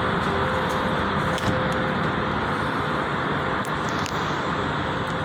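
Steady road-traffic noise with a few faint clicks.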